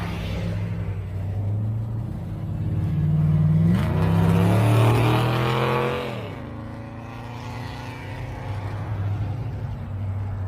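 A car engine accelerating past. Its pitch rises about four seconds in, it is loudest for about two seconds, then the pitch drops and the sound fades as the car moves away, with steady engine running underneath.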